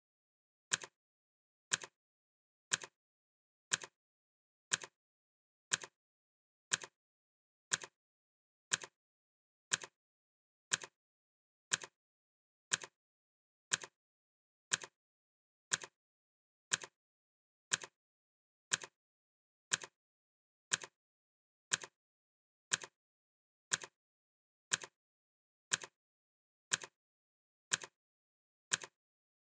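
Clock ticking sound effect: one sharp tick each second, each a quick double click, with dead silence between.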